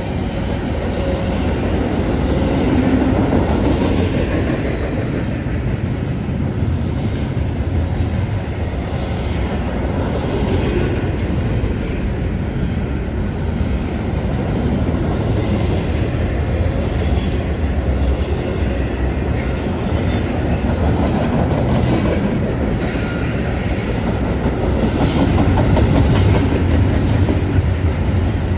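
A passing train: steady rolling rumble of the wheels on the rails, with high-pitched wheel squeal coming and going.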